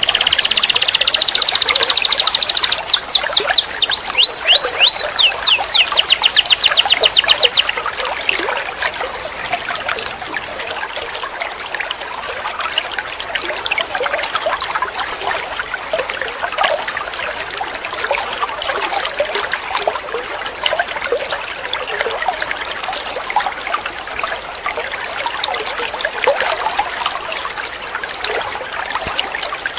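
Domestic canary singing loud, fast trills and rapid repeated notes, breaking off after about seven seconds; a steady trickle of running water continues on its own after that.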